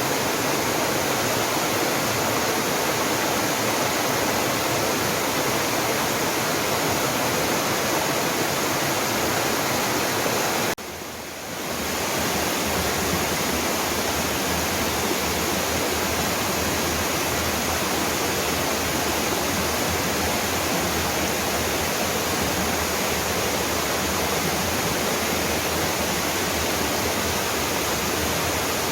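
Waterfall rushing in a steady, dense roar of falling water. It dips briefly once, a little over a third of the way through, then carries on unchanged.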